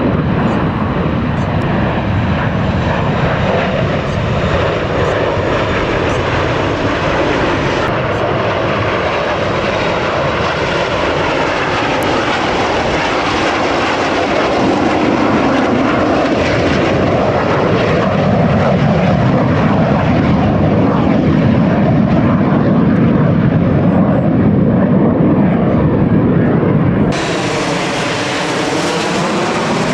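Display aircraft engines heard from the ground as the planes fly past: a loud, continuous jet rush with slowly sweeping, rising and falling tones as they pass. The sound changes abruptly about 27 seconds in.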